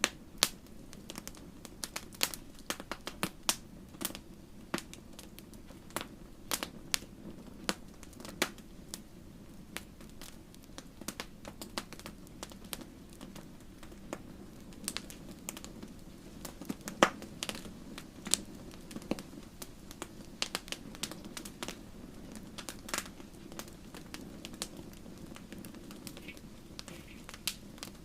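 Wood fire burning in a fireplace, crackling with irregular sharp pops over a steady low rumble of flame. One louder pop comes past the middle.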